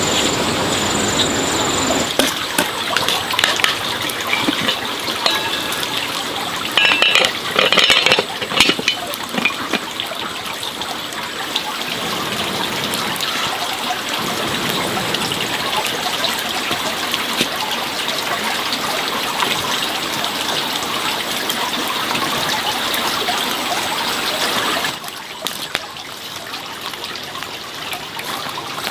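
Water running and splashing steadily, with a short spell of knocks and clatter about a third of the way in. The water gets quieter near the end.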